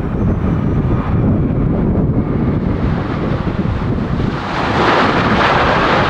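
Wind buffeting the microphone over a low rumble, then about four and a half seconds in the jet-engine noise of a Boeing 787-8 Dreamliner swells up sharply and stays loud.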